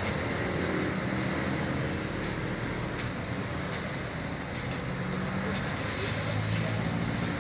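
MAG (gas-shielded wire) welding arc crackling and hissing, with irregular sharp pops over a steady low hum.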